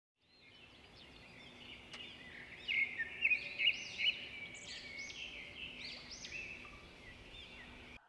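Several birds singing and chirping at once, many short overlapping whistled notes, with the sharpest, loudest chirps about three to four seconds in. A faint steady low hum runs underneath.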